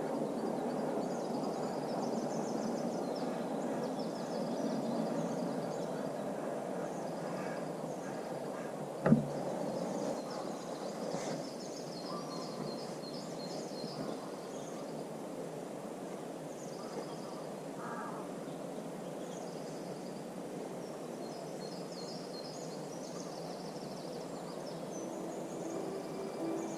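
Birds chirping and calling over a steady low hum of distant road traffic from across a lake. A single sharp knock about nine seconds in.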